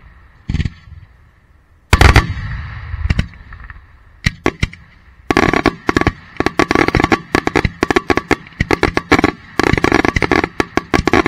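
Daytime fireworks going off at close range among the mortar tubes. A single bang comes about half a second in and a loud blast at about two seconds, then a few scattered bangs. From about five seconds on there is a rapid string of sharp bangs, several a second.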